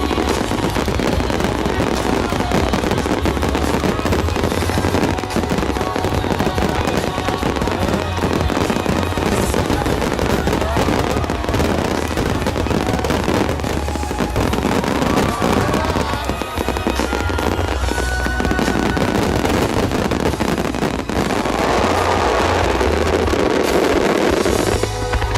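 A dense, continuous barrage of fireworks: deep booms and rapid crackling bursts with no break, over music played through loudspeakers.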